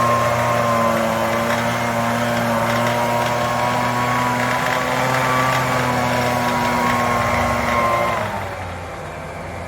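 Homelite UT08572 backpack leaf blower's 30cc two-stroke engine running steadily at high speed. About eight seconds in, it drops back to a lower, quieter idle. The owner says it has a rattle she doesn't like.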